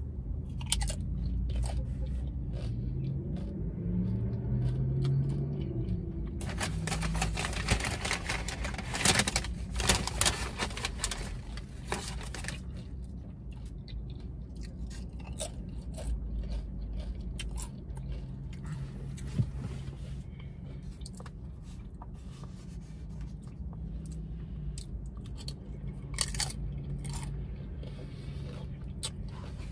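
Close-up chewing of a burrito bowl and tortilla chips, with loud crisp crunching from about seven to twelve seconds in and a few more crunches near the end.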